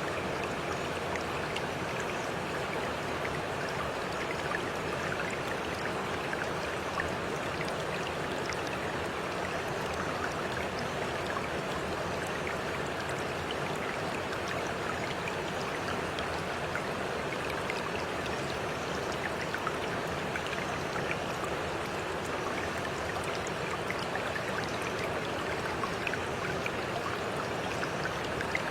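Steady flowing water of a stream, with faint scattered drip-like ticks.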